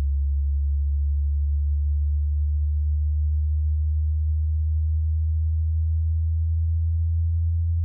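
A steady, very low-pitched electronic test tone, a pure hum that starts abruptly out of silence and holds at one pitch without changing.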